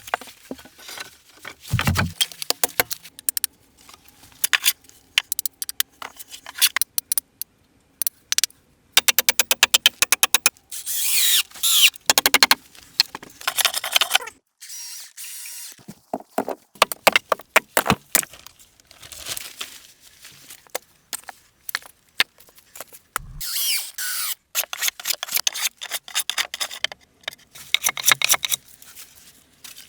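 Handling and working noises: irregular clicks, knocks and scrapes, with a fast even run of clicks about nine seconds in, squeaky scraping after it and again later, and one low thump a little before the three-quarter mark.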